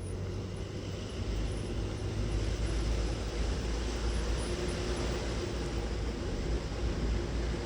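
Steady running noise of a car on the move: a low engine and road rumble with tyre noise and a faint steady hum, swelling slightly about a second in.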